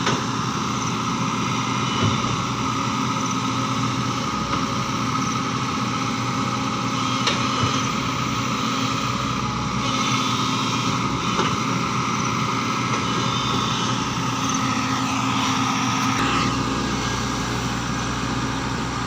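Diesel engine of heavy earthmoving machinery running steadily, with a deeper low note coming in near the end.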